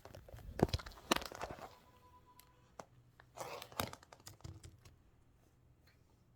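Irregular knocks, clicks and thuds with rustling, loudest in the first two seconds, with another rustling burst and knock around three and a half seconds in, then dying away to quiet room tone.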